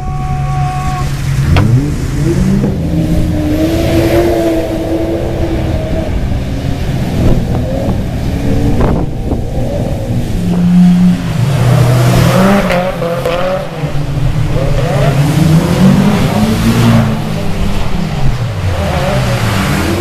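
Drift car engines revving hard and repeatedly rising and falling in pitch as the cars slide, with some tyre noise. A couple of sharp cracks stand out, one early and one about halfway through.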